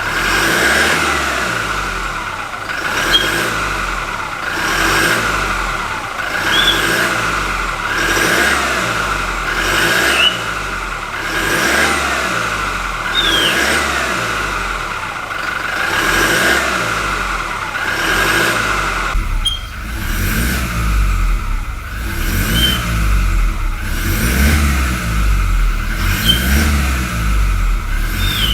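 Toyota Innova's 2GD-FTV 2.4-litre four-cylinder turbodiesel being revved over and over, about once every two seconds. Each rev carries a short high turbo whistle that rises and falls with it: the turbo spooling up and down.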